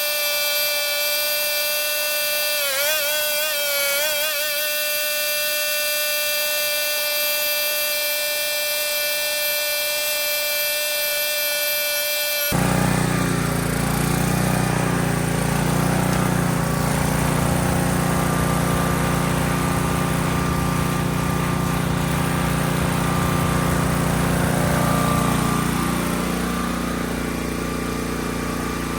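A steady high whine with overtones that wavers briefly a few seconds in, then cut off abruptly and replaced by the Hotsy pressure washer's 16-horsepower engine running steadily under load.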